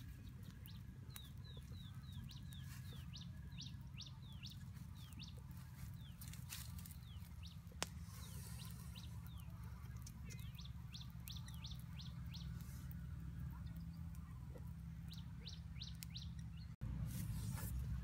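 Small birds chirping in quick series of short, falling notes, over a steady low rumble, with a few sharp clicks. Near the end the low rumble becomes louder.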